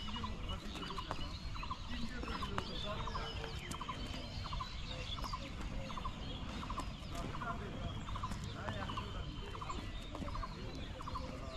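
Birds calling outdoors: one repeats a short pulsed call about every three-quarters of a second while other birds chirp around it, over a low rumble of wind on the microphone.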